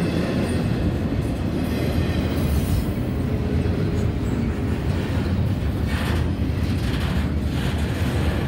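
CSX freight train of double-stack container well cars rolling past at close range: a steady rumble of steel wheels on the rails.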